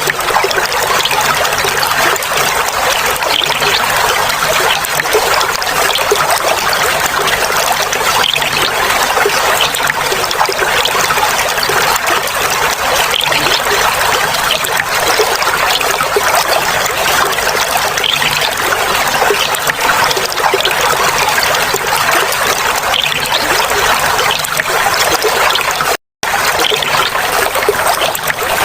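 Clear water trickling and babbling steadily, as from a small stream or water flowing over stones. Near the end it cuts out for a split second, then resumes.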